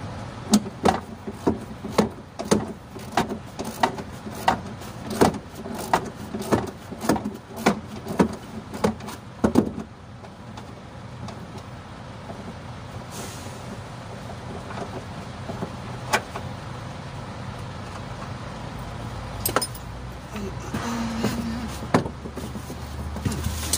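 Repeated sharp metal knocks and clicks from hand work on the truck, about two or three a second for roughly ten seconds, then only a few scattered clicks and some scraping near the end.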